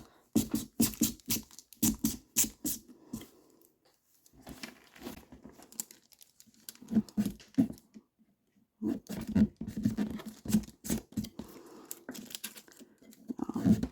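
Pumpkin-carving tool cutting and poking into pumpkin rind to pick out the dog's whiskers: quick, scratchy strokes in short runs with brief pauses.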